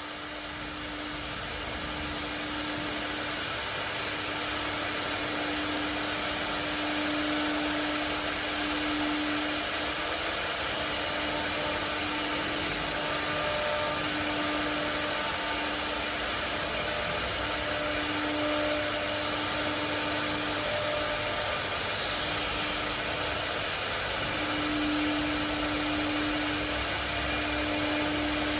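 A 4-axis CNC router running: a steady whirring noise that builds over the first few seconds, with a hum that comes and goes every few seconds as the machine works.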